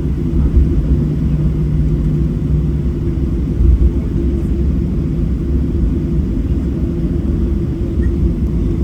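Steady low rumble inside the cabin of a Boeing 737-700, from its CFM56-7B engines and airframe. A faint steady hum sits over the rumble.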